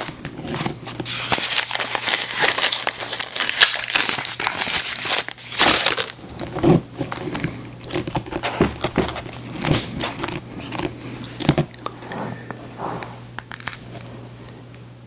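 Close-miked eating of sweets: a candy wrapper crinkling for about the first six seconds, then separate bites and chewing that thin out toward the end.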